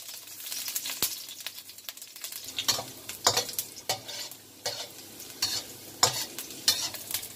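Small chunks of food sizzling in hot oil in a wok, stirred with a metal spatula that scrapes and knocks against the pan at irregular moments.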